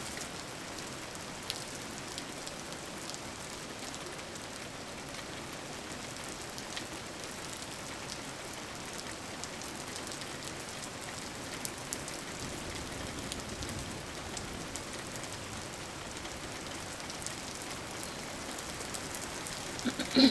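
Steady rain falling, an even hiss dotted with small drop ticks. A brief, louder sound comes right at the end.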